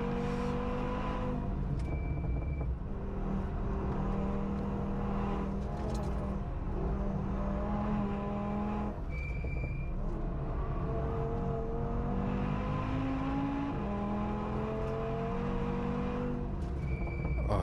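Onboard sound of an Audi S1 with a swapped RS3 2.5-litre five-cylinder engine pulling hard on track, its pitch climbing slowly through long gears, with upshifts near the start, about halfway and near the end. A short high beep sounds three times, each near one of the shifts.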